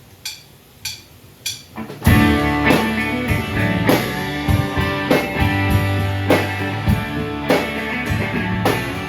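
Live rock band starting a song: four evenly spaced count-in clicks, then at about two seconds the full band comes in loudly with drums, guitar and bass playing together.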